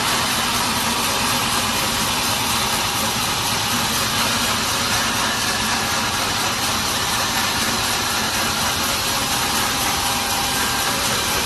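Sawmill machinery running steadily, an even, unbroken machine noise that does not change in level.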